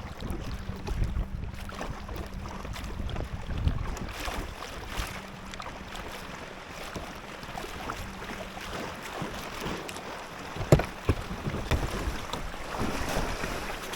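Kayak out on choppy water: paddle splashes and water slapping the hull, with wind on the microphone. A sharp knock comes about ten and a half seconds in, followed by a few lighter knocks.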